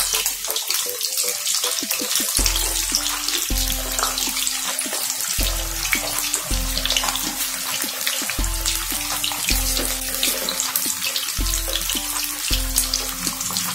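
Stuffed bitter gourds sizzling and bubbling in hot oil in a kadhai: a steady frying hiss. Background music with a slow bass line plays under it.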